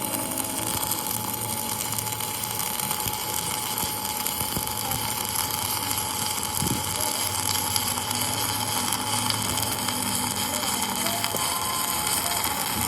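A steady rushing hiss with a constant thin whine from a running machine, holding even throughout.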